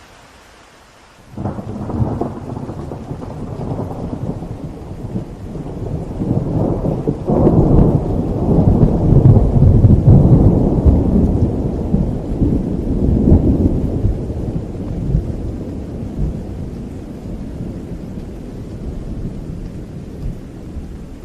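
Thunder over steady rain: a sudden clap about a second in, a second crack a few seconds later, then a long low rumble that slowly dies away while the rain hiss goes on.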